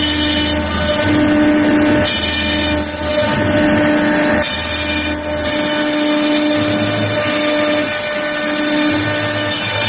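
CNC router spindle running and cutting into a wood panel: a loud steady high whine and hiss, with a lower hum that starts and stops about once a second.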